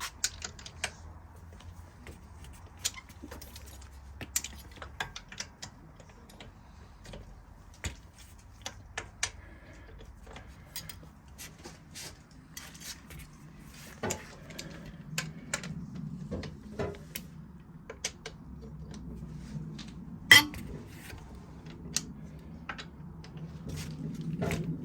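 Metal tools being handled, a socket and locking wheel nut key clinking and clicking at irregular intervals, with one sharp clack about twenty seconds in.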